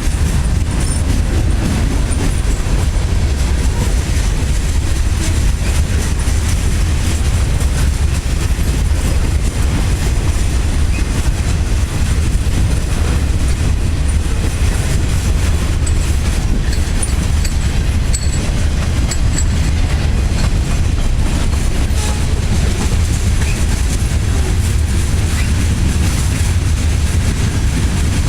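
Railroad cars rolling past on the track: a steady, loud rumble of wheels on rail with faint clicking, unbroken throughout.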